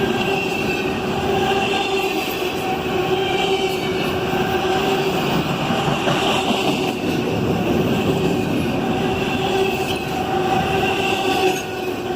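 Norfolk Southern freight train rolling past, its cars' wheels running on the rails with a steady rumble and a sustained wheel squeal.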